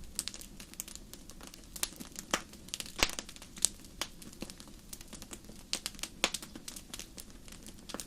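Wood fire crackling in a fireplace: sharp, irregular snaps and pops over a faint hiss.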